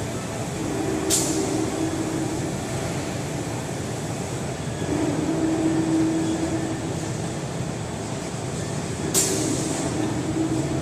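Large-format automatic screen washout booth running: a steady spraying and machine noise, with a low hum that swells and fades three times, and two short sharp hissing clicks, about a second in and near the end.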